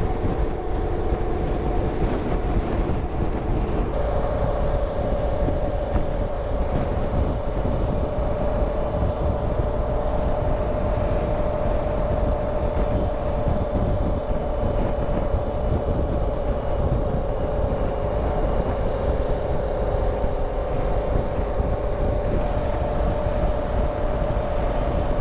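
BMW R1200GS Adventure's boxer-twin engine running at a steady road speed, heard through the rider's helmet microphone with heavy wind and road rumble. The engine note steps up a little about four seconds in.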